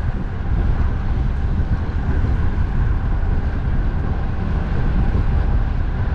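Steady wind rumble on the microphone, mixed with the continuous noise of road traffic.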